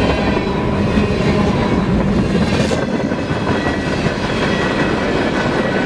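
Canadian Pacific freight train passing at speed: a steady rumble and clatter of cars rolling by, wheels clacking over the rail joints.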